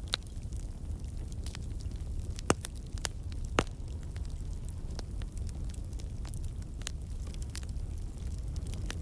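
Campfire of burning logs: a low steady rumble of flame with scattered sharp crackles and pops, two louder pops about two and a half and three and a half seconds in. The crackling comes from water and sap trapped in the wood bursting out as steam.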